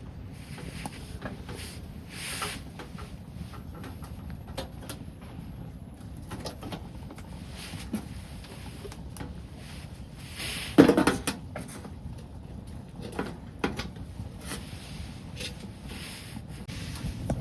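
Scattered light clicks and knocks, with one louder clatter about 11 seconds in, over a steady low rumble like wind on the microphone.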